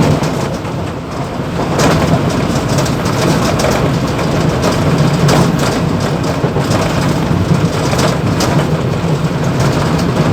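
Mumbai local EMU train running between stations, heard from the motorman's cab: a loud, steady rumble with a low hum and scattered rattles and knocks.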